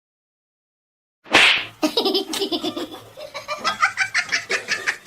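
Silence for about a second, then a sudden loud burst of noise followed by a person laughing in quick, repeated bursts that climb higher in pitch toward the end.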